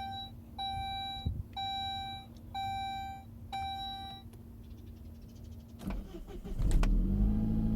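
A car's warning chime beeps five times, about once a second. About six seconds in come a couple of clicks, then the Saab 9-5's 2.0-litre turbo four-cylinder cranks, catches and settles into a steady idle.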